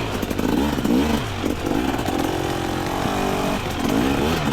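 Two-stroke dirt bike engine revving up and down in short blips, its pitch holding steadier for about a second midway.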